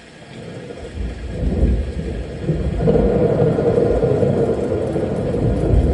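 Thunderstorm: thunder rumbling with rain, swelling from quiet over the first second or two and staying loud.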